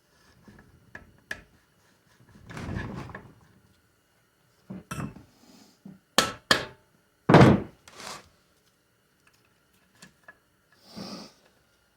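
Tools and metal parts knocking and clicking against a 4L60E transmission case while the 2-4 servo is worked out: a string of separate thunks and sharp clicks, the loudest about seven seconds in.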